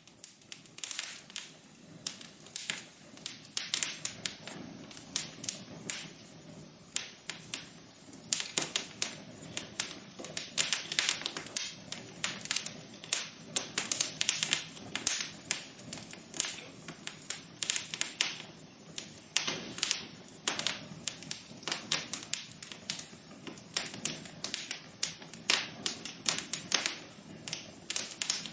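Wood fire burning in a fireplace, crackling with a dense, irregular stream of sharp pops and snaps over a soft steady hiss.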